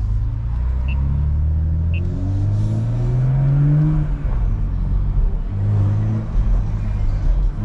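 BMW M340i's turbocharged B58 inline-six accelerating: the engine note climbs steadily for a few seconds, drops off about four seconds in as at a gear change, then carries on at a steadier pitch.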